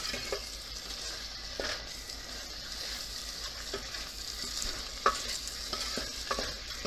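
Chicken and tomato-onion masala sizzling in a pot while a wooden spatula stirs it. A steady frying hiss carries a few short scrapes and knocks of the spatula against the pot.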